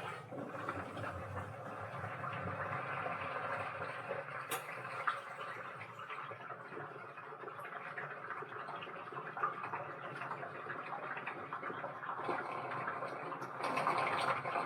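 Washing machine taking in water: a steady rush of water into the drum, with a few faint clicks.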